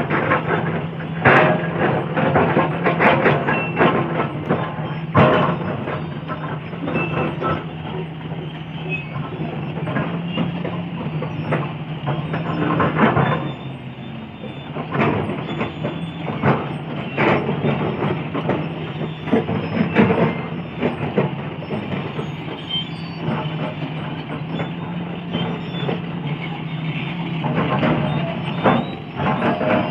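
Sany 210 heavy excavator's diesel engine running with a steady hum, over irregular metallic clanks and knocks from the machine at work.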